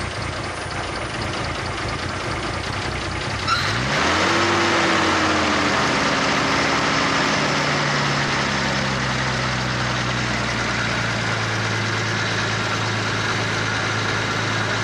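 Newly rebuilt Nissan RB25DET turbocharged straight-six on its first start: after about three and a half seconds of low, uneven running it picks up sharply to a high idle, which then slowly falls away and settles into a steady idle.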